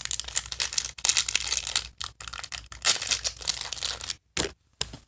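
Crinkly plastic blind-bag wrappers being handled and torn open: irregular crackling and rustling with brief pauses, dropping out for about half a second near the end.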